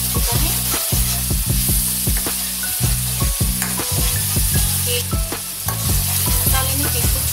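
Onion-tomato masala sizzling and frying in a nonstick pan while a steel spoon stirs it, with a steady hiss and frequent clicks and scrapes of the spoon against the pan.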